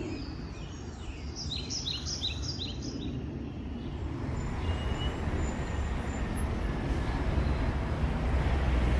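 A bird sings a short run of quick repeated high chirps, about four a second, early in the clip. Under it, a low road-traffic rumble grows louder towards the end.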